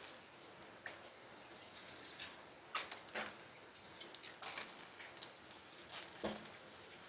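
Pressed gym chalk slabs being crushed, giving a scattered series of short, sharp crunches and crackles at irregular intervals, with a few louder snaps in the middle and near the end.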